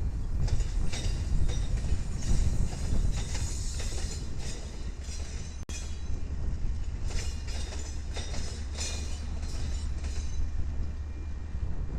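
Train passing on the rails: a steady heavy rumble with repeated wheel clicks and clatter over the track, broken once by a momentary dropout about halfway through.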